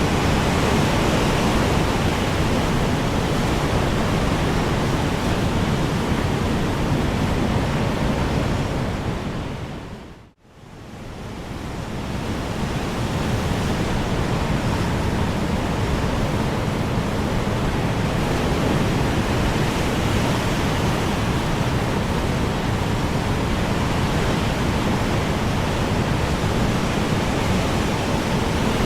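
Strong wind blowing as an even, steady rush. About ten seconds in it fades away to near silence and then swells back up over the next few seconds.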